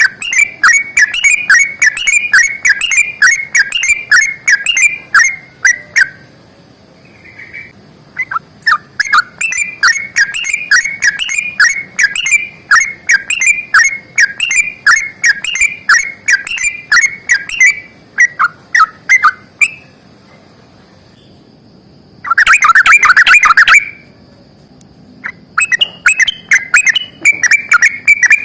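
Yellow-vented bulbul (trucukan) calling in long, rapid 'ropel' series, a fighting-style burst of chattering notes at about four to five a second. The series break off briefly twice, with one dense, loud flurry of notes near the end.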